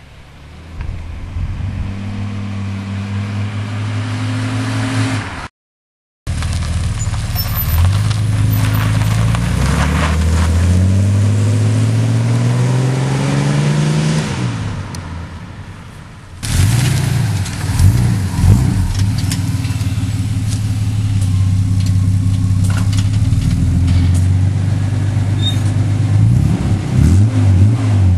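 Ford Falcon EA inline-six running through a Lukey straight-through performance muffler and racing tailpipe. It revs up in one long rising climb, drops back, then gives several quick sharp blips between steadier running. There is a brief total dropout about six seconds in.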